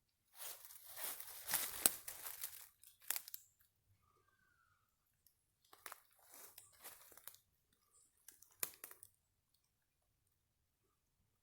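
Dry twigs and leaves crunching and crinkling as they are handled, in three bursts with pauses between.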